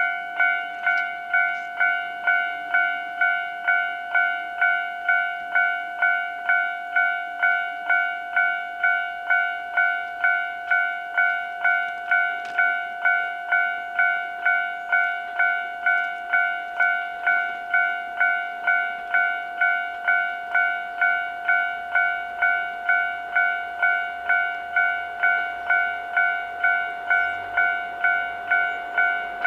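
Railway level-crossing alarm ringing, an even, steady electronic clang about one and a half times a second. A faint low rumble comes in about two-thirds of the way through.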